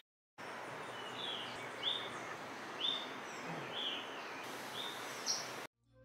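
A bird chirping in short high notes, repeated about once a second, over a steady hiss of outdoor background noise. The sound cuts off suddenly near the end.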